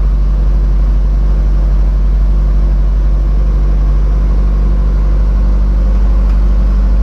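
Toyota Avanza engine idling steadily, heard from inside the cabin, with a strong low hum. Its intake air pressure and intake air temperature sensors are unplugged.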